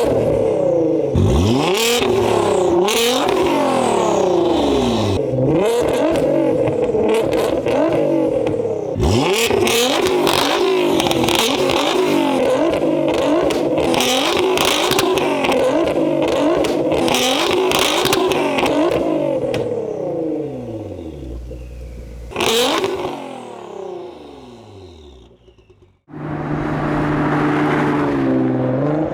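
Nissan GT-R R35's twin-turbo V6 through an aftermarket sports exhaust, free-revved over and over in quick blips that rise and fall in pitch, then left to settle back down. Near the end the car is heard pulling under steady acceleration.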